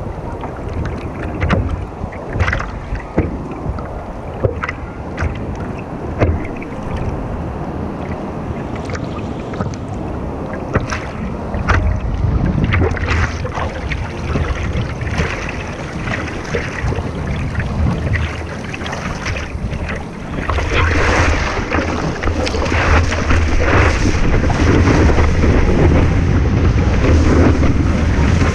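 Wind buffeting the microphone over ocean surf, a heavy low rumble with crackles, growing louder about two-thirds of the way through.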